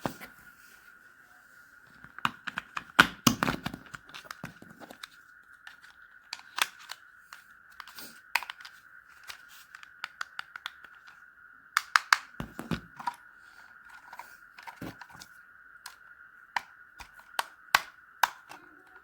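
Plastic toy and packaging being handled by hand: scattered clicks, taps and crinkles coming in clusters, over a faint steady high tone.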